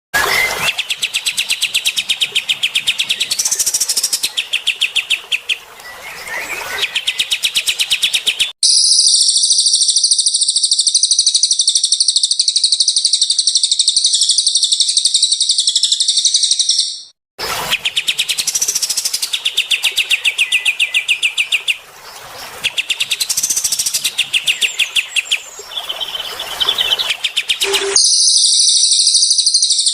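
Recorded songs of the cililin and kapas tembak songbirds, played for training cage birds. Stretches of rapid, repeated chirping phrases take turns with long, dense, very high trills, with a short break about halfway through.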